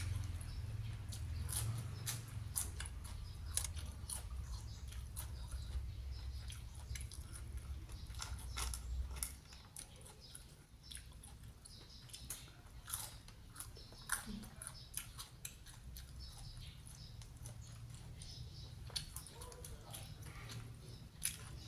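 A person chewing and biting crunchy food close to the microphone: many small sharp crunches scattered throughout. A low rumble sits under the first nine seconds or so, then drops away.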